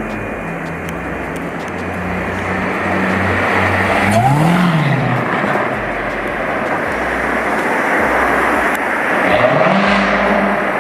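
Car engines in street traffic, one revving up and back down about four seconds in and another revving up near the end, over a steady traffic rumble.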